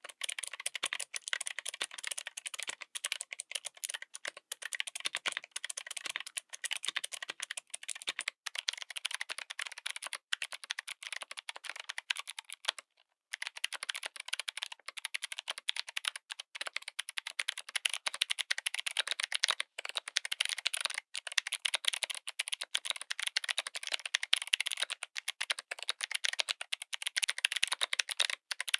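Continuous fast typing on a mechanical keyboard fitted with clicky switches: a dense stream of sharp, crisp key clicks, briefly stopping about thirteen seconds in before resuming.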